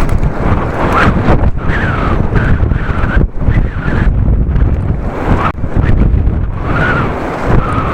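Strong gusty wind buffeting the microphone while cycling into very heavy wind: a loud, continuous rumble that swells and eases with the gusts.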